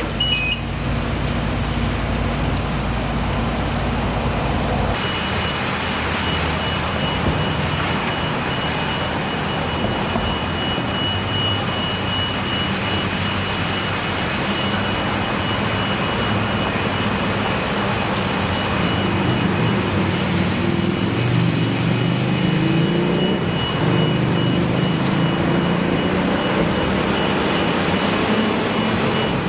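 Steady engine and machinery noise. About five seconds in, a continuous high whine joins it, and around two-thirds through an engine tone rises in pitch for a few seconds.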